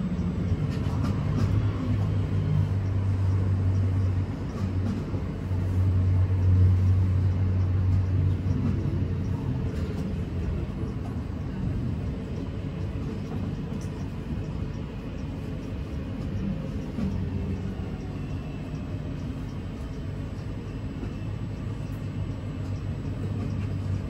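Class 323 electric multiple unit heard from inside the passenger saloon while running: a steady rumble with a low hum that is strong for the first several seconds, weakens through the middle and returns about two-thirds of the way through, with a faint gliding whine in between.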